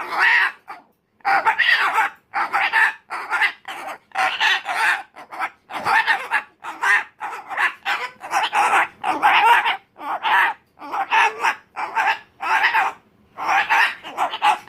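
Umbrella cockatoo screaming in a tantrum: a long run of loud calls, about two a second, with short pauses between them.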